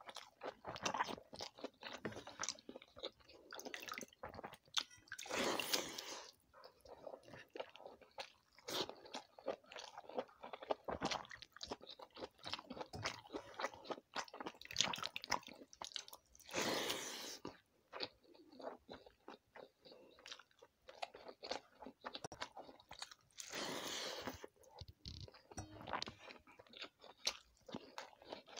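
Close-up chewing and crunching of water rice and fried vegetables eaten by hand, with wet mouth clicks and smacks, and the hand squishing rice in the watery bowl. Three longer, louder noisy stretches come about five, sixteen and twenty-three seconds in.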